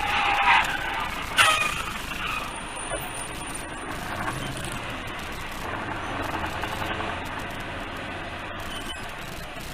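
Dashcam recording of a road collision: a short high-pitched squeal, then a sharp loud crash of impact about a second and a half in. After it, a steady rumble of engine and road noise.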